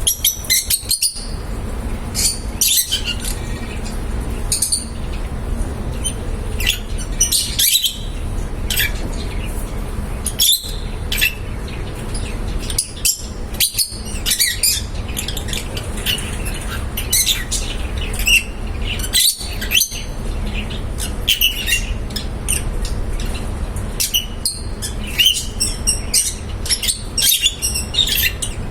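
Lovebirds chirping and squawking in short, sharp, irregular calls, over a steady low background hum.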